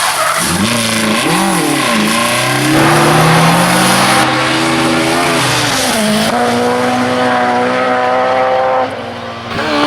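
Rally car engine pulling hard through the gears, revs climbing and then dipping briefly at each gear change, twice in the middle. Near the end the revs drop as the car lifts off.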